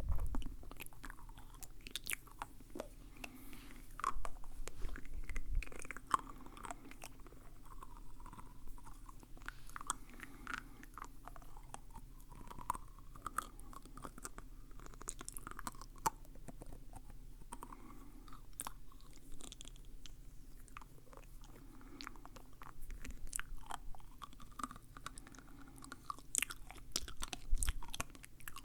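Close-miked mouth sounds: irregular wet clicks, smacks and chewing-like crunches.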